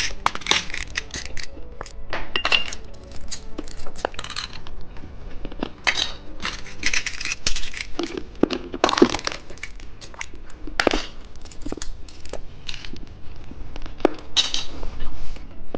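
Close-miked candy being unwrapped and eaten: irregular crackles, clicks and crunches of a wrapper and hard candy, in scattered clusters.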